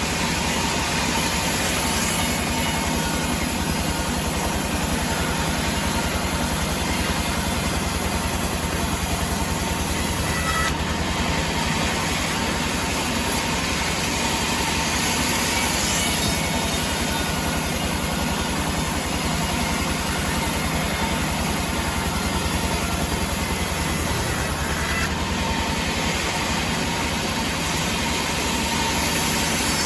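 Sawmill machinery running steadily: an engine drone under a constant hiss. The sound shifts slightly about a third of the way in and again near the end.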